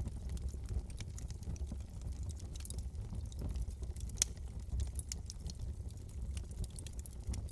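Wood fire burning in a fireplace: irregular crackles and small pops over a steady low rumble of the flames, with one sharper pop about four seconds in.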